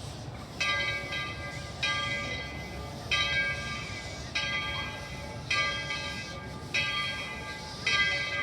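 A locomotive bell ringing steadily, struck about once every 1.2 seconds, seven strokes starting just after the start, over a low rumble.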